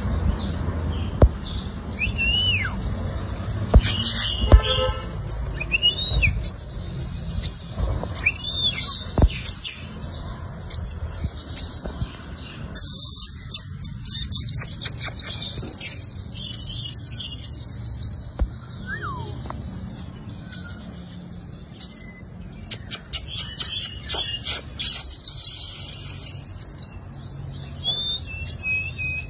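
Sunbird singing: a string of sharp, very high chirps that each flick upward, with a few lower warbled notes. Partway through, and again about three-quarters of the way in, the chirps break into fast, rattling high trills. A few short clicks are heard among the notes.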